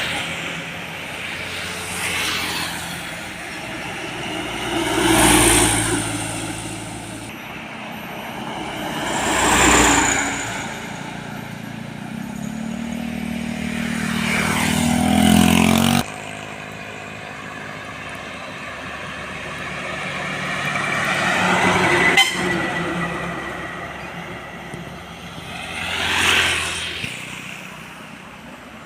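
Heavy trucks passing one after another on a road, each engine and tyre noise swelling and fading as it goes by, about five in all. Around the middle one diesel engine pulls with a rising pitch before the sound cuts off suddenly.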